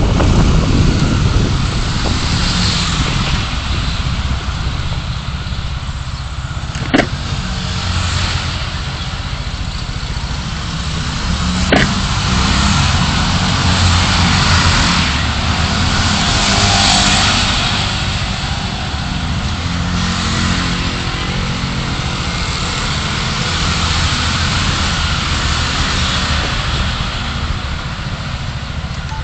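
Car driving in city traffic: steady road and engine noise with a low rumble. Two sharp clicks about seven and twelve seconds in.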